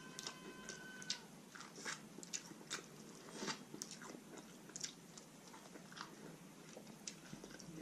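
Close-up mouth sounds of biting and chewing corn on the cob: irregular moist clicks and small crunches as kernels are bitten off and chewed.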